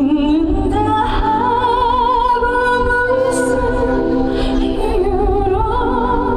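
A woman singing a slow Korean trot ballad live over a backing track, holding long notes with wide vibrato.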